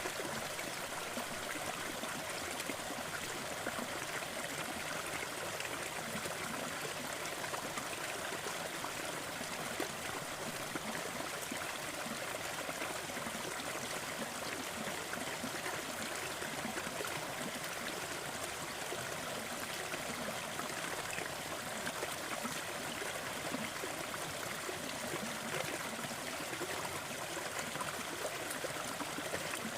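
Crackling fireplace: many faint, quick pops over a steady, even rushing noise that never lets up.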